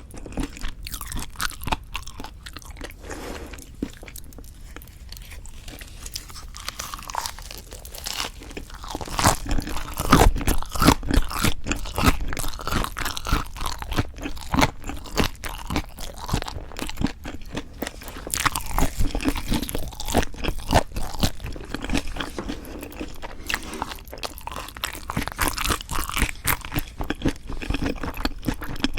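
Close-miked eating sounds: crunchy bites and chewing of lettuce wraps filled with raw-fish bibimbap and boneless chicken feet. The chewing is quieter for the first several seconds and the crunching gets louder from about nine seconds in.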